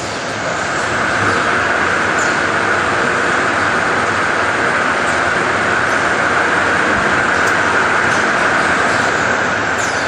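Toilet-paper band saw cutting machine running: a steady high whine over a continuous mechanical hiss, getting louder in the first second.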